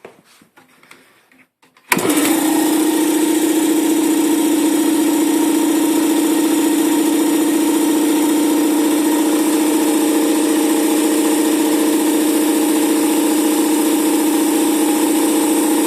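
Campbell Hausfeld electric air compressor switching on suddenly about two seconds in and running loud and steady, with a strong low hum and a hissing rattle over it.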